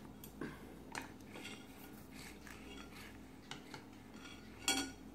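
Baby chewing a small crunchy snack: scattered faint crunches and mouth clicks, with one louder short click near the end.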